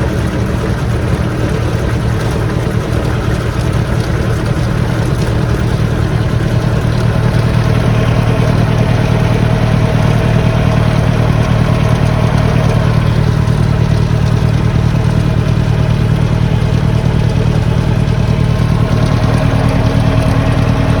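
A vehicle engine running steadily under load, a little louder from about seven seconds in.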